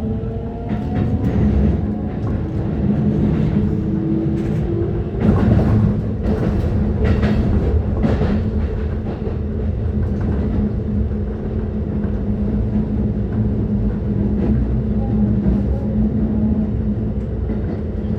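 Keikyu 600 series electric train running: the traction motor whine rises in pitch over the first few seconds as it accelerates, then fades under wheels clacking over rail joints and a steady rumble of running noise.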